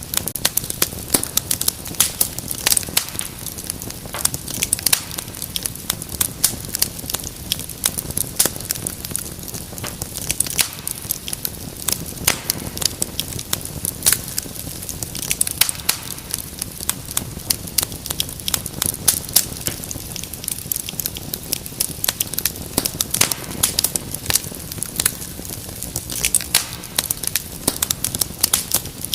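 Wood fire crackling in a fireplace: dense, irregular sharp pops and snaps over a low, steady rumble of burning.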